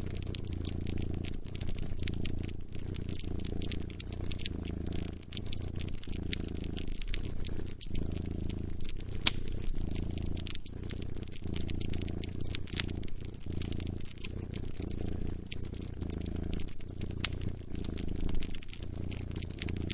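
A cat purring close up, a low rumble rising and falling with each breath, over a wood fire's irregular sharp crackles and pops.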